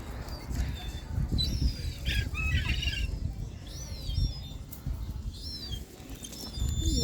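Birds calling, with short high chirps that rise and fall, scattered all through and bunched together about two to three seconds in, over a steady low rumble.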